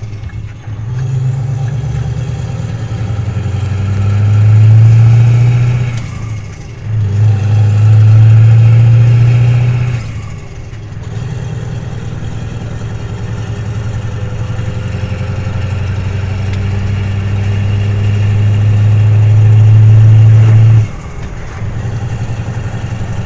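Scania R620's 16-litre V8 diesel running under load, its deep exhaust note swelling and falling back several times: two shorter surges in the first ten seconds, then a long steady build that cuts back sharply about twenty-one seconds in.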